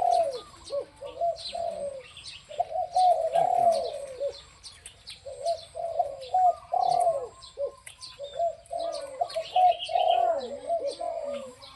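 A decoy dove cooing in repeated phrases of quick, wavering notes with short pauses between them, and faint high chirps from small birds.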